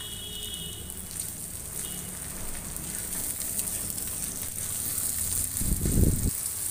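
Chopped onions, tomatoes and rice sizzling as they fry in an iron kadai, stirred with a spatula. A single low thump near the end.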